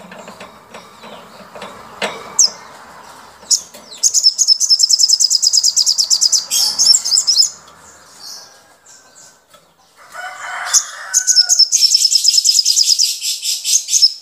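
Caged songbirds calling: scattered chirps, then two long, very fast, high-pitched trills of rapidly repeated notes, one about four seconds in and one near the end. The sound cuts off suddenly at the end.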